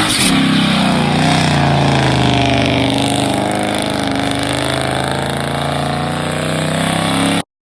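SRT car engine running loudly just after a rev, settling to a steady, slightly wavering speed, then cutting off abruptly near the end.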